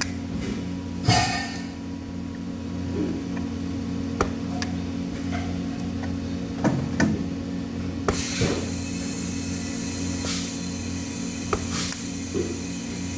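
Steady machine hum in a welding shop, with scattered metallic clicks and knocks and a few short hissing spells.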